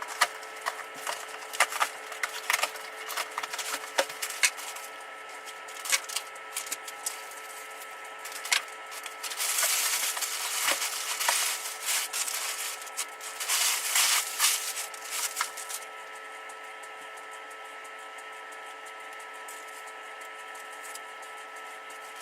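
Handling of boxed BMX parts and their packaging: scattered clicks and knocks, with two stretches of rustling about ten and fourteen seconds in, over a steady background hum that is left almost alone for the last few seconds.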